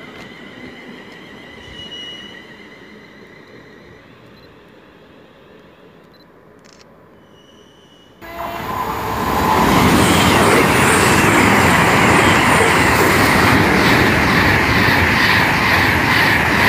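Quiet station background with a few faint tones, then, about eight seconds in, a sudden loud rushing noise as a Class 221 Super Voyager diesel train passes at speed close along the platform, running steadily loud to the end.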